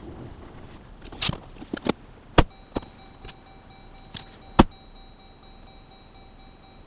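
A run of about eight sharp clicks and knocks over three and a half seconds, with a faint steady high tone coming in about three seconds in and holding.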